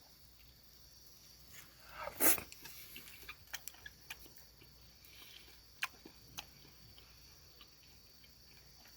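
A person eating: a short, loud mouth-and-breath noise about two seconds in, then a few light clicks and quieter eating noises.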